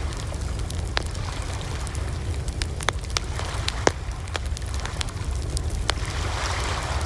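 Wood fire crackling, with irregular sharp pops over a steady low rumble of the flames. The loudest pop comes about four seconds in, and a soft hiss swells near the end.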